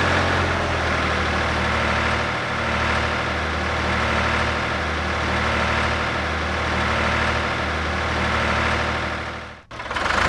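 Tractor engine sound idling steadily, with a brief cut-out near the end.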